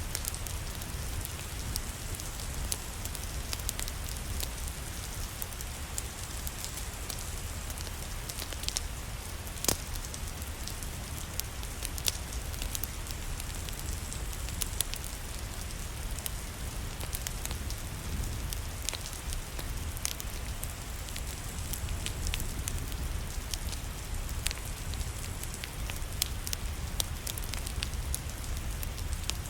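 Rain falling steadily together with a crackling wood fire: a constant noise with a low-end weight, with scattered sharp pops and crackles, the loudest a little under ten seconds in.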